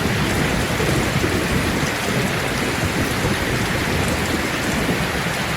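Steady heavy rain pouring down in an even hiss, with a low rumble underneath and no distinct thunderclap.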